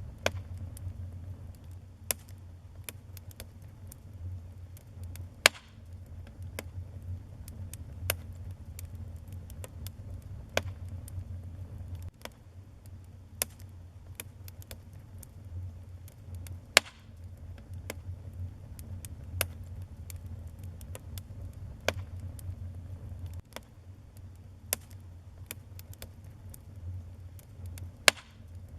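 Wood fire burning in a fireplace: a steady low rumble of the flames with irregular sharp crackles and pops, a few louder pops standing out about five seconds in, in the middle and near the end.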